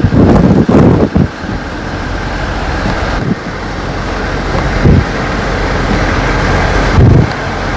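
Blizzard wind blowing hard and steadily, with strong gusts buffeting the microphone in low rumbles near the start, about five seconds in and about seven seconds in.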